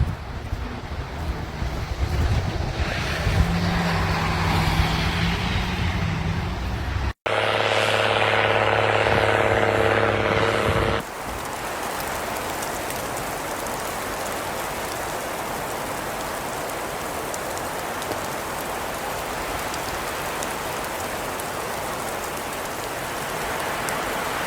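Snowstorm sounds in a few cut-together clips: a vehicle engine humming steadily for several seconds, then a long, steady, even hiss of wind.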